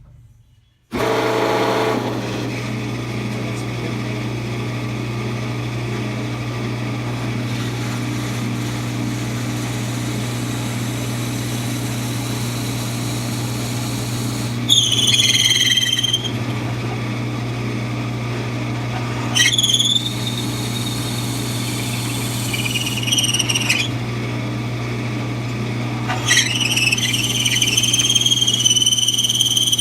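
A lathe motor starts about a second in and runs with a steady hum. From about halfway, a 1/2 inch brad point bit drilling into the spinning wooden dowel squeals high-pitched four times, fed in and out to clear the chips, the last squeal longest near the end.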